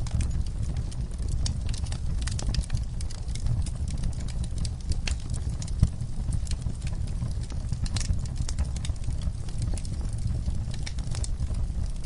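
Fire crackling: irregular sharp pops and snaps over a steady low rumble, with one louder pop about six seconds in.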